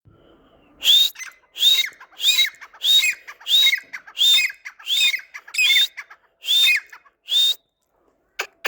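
A bird giving a series of about ten loud, harsh calls, evenly spaced about two-thirds of a second apart, each with a brief rising-then-falling whistled note inside it; the calls stop about a second before the end.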